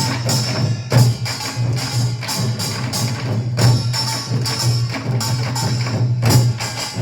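Samul-nanta percussion ensemble playing: drums and small percussion struck in a steady, driving rhythm.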